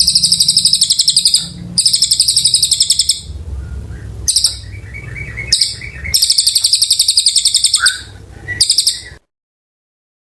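A cililin songbird singing rapid, high, buzzing trills in several bursts, the longest lasting about one and a half to two seconds, with short chirps between. The song cuts off suddenly about nine seconds in.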